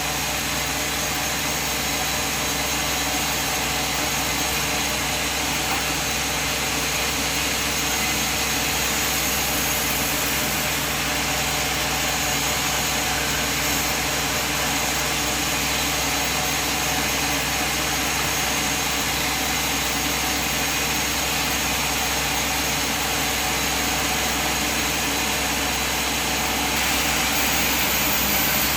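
Sawmill machine running steadily, a continuous mechanical noise that grows slightly louder near the end.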